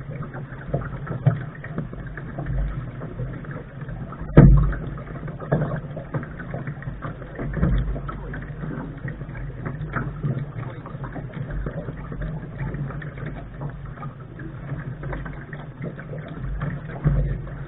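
Lark sailing dinghy under way: a steady low rumble of wind and water against the hull, with scattered knocks and one loud thump about four seconds in.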